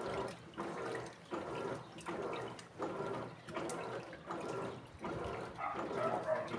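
Electrolux Essential Care LED14 top-loading washing machine agitating a load: water sloshing and churning in regular strokes, a little more than one a second.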